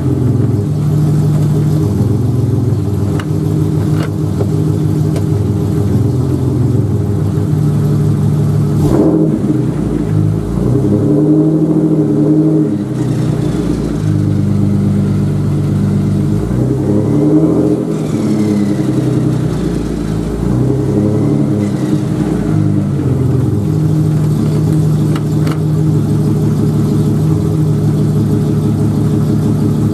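A Jeep Cherokee's 4.0 inline-six runs with a glasspack exhaust and no catalytic converter, turning the driveshaft in gear. It holds a steady speed, and its pitch rises and falls several times through the middle.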